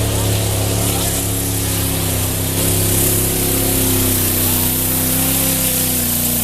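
Modified tractor-pulling tractor with six turbochargers, its engine running flat out at high revs during a pull: a loud, steady, multi-toned engine sound that holds nearly constant pitch.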